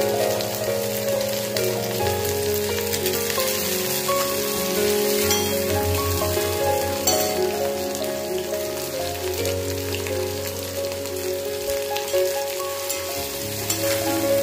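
Chopped onion and tomato sizzling in hot oil in an iron kadai, a steady crackling hiss, with instrumental background music of changing notes playing over it.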